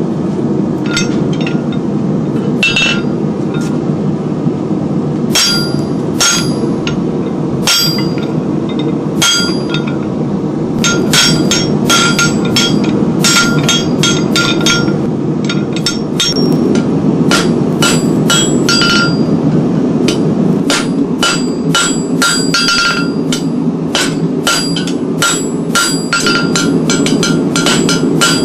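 C41 pneumatic forging hammer running with a steady mechanical rumble and striking metal with sharp, ringing blows. The blows come singly at first, then in quick runs of several a second from about ten seconds in.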